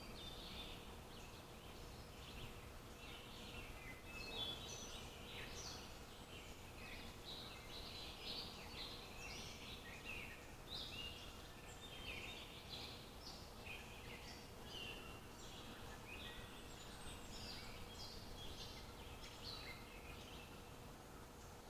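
Several small birds chirping and trilling continuously, many short overlapping calls, over a faint steady outdoor background with a low hum.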